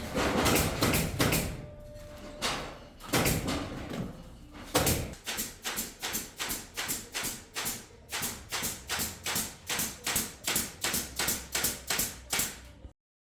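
A series of sharp knocks, dense at first and then steady at about three a second, cutting off abruptly near the end.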